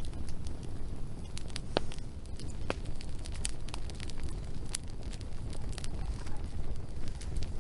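Wood fire burning, with sharp crackles and pops at irregular intervals over a steady low rumble.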